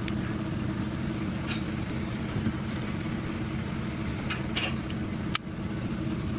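An engine running steadily at idle, with a few light metal clinks and one sharp knock about five seconds in.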